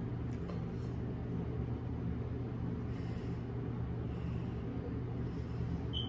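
A steady low hum, with a short high-pitched beep just before the end.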